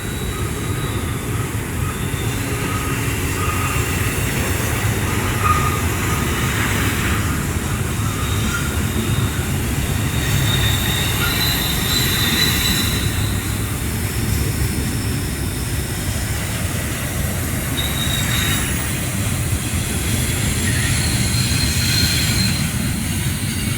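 Union Pacific double-stack container freight train rolling by: a steady rumble of cars on the rails, with thin high wheel squeals coming and going throughout.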